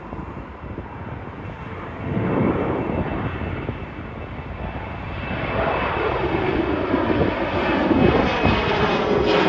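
Jet airliner engines getting steadily louder as the aircraft closes on the runway end, a steady high whine coming in over the noise in the second half.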